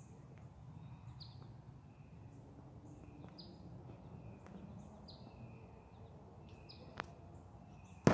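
A bird calling outdoors, one short high note repeated about every second and a half, over a low steady background rumble. A faint click comes about seven seconds in, and a sharp, louder click right at the end.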